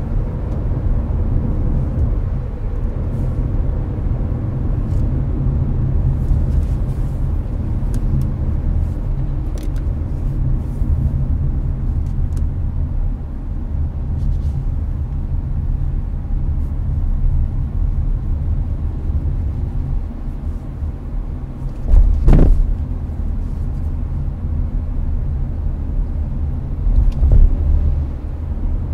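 Steady low road and tyre rumble inside a Hyundai Avante cruising on a highway, with the air conditioner running. Two louder thumps stand out near the end, about five seconds apart.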